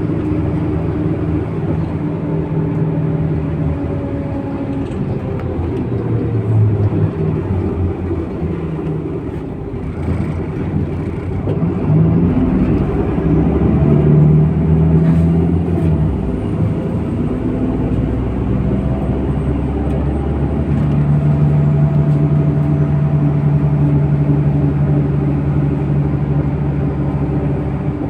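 MAZ-103 city bus running under way, its engine note rising and falling with changes in speed, then holding steady through the second half.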